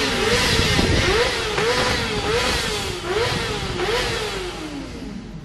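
Motorcycle engines being revved in repeated quick throttle blips, the pitch jumping up and sliding back down more than once a second. The sound fades away near the end.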